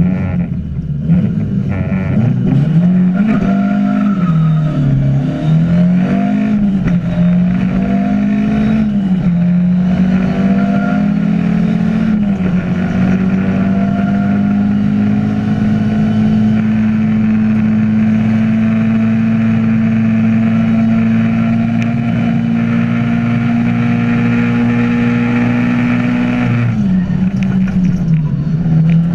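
Ford Escort rally car's engine heard from inside the cockpit, accelerating hard from the start through about five quick upshifts, each a rise in revs followed by a drop. It is then held at steady high revs for a long stretch, and the revs fall near the end.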